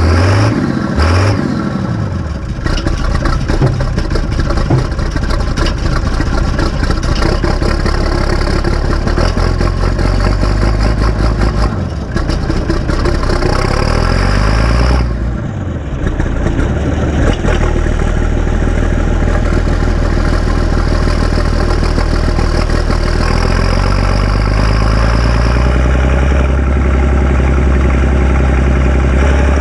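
Massey Ferguson 699 tractor's turbocharged diesel engine running steadily. The revs swing in the first couple of seconds, then dip and pick up again about halfway through.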